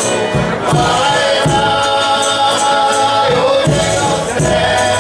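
Folia de Reis group music: voices singing long held notes together over a steady drum beat of about one and a half beats a second, with tambourine jingles.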